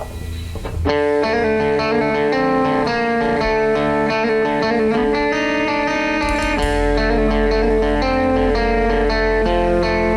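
Guitar music with plucked notes starts about a second in. A deeper low part joins about six seconds in.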